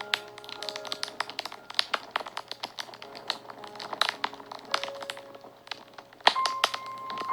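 Wood fire crackling and popping in quick irregular snaps, with a sharper pop about six seconds in. Soft background music of long held notes plays underneath.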